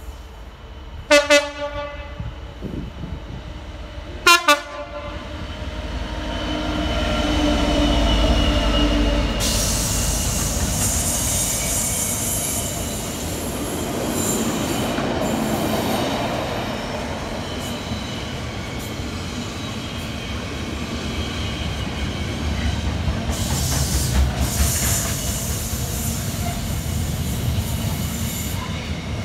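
Class 66 diesel freight locomotive sounding two short horn blasts about three seconds apart as it approaches, then its engine passing close. A long intermodal container train follows, its wagons rumbling and clattering past.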